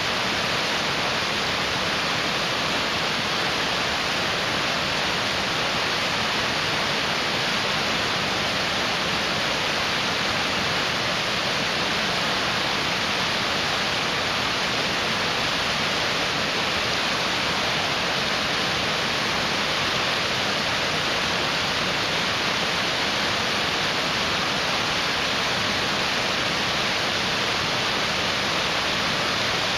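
A mountain stream rushing steadily over rocks, an even, unbroken roar of water.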